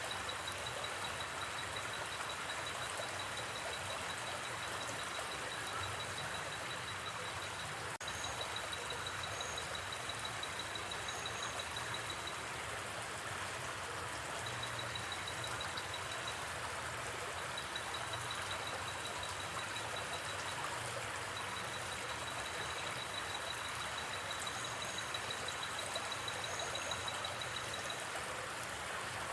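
River water flowing steadily. A cricket trills at one high pitch in long stretches that break off now and then, with a few short, higher chirps.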